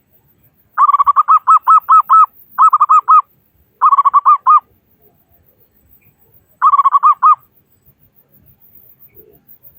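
Zebra dove (local perkutut) cooing: four quick phrases of short repeated notes, the first the longest, with a longer pause before the last.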